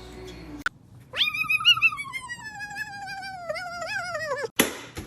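A cat's single long yowl, about three seconds, starting high and sliding slowly down in pitch with a wavering quaver. It is cut off by a sharp click near the end.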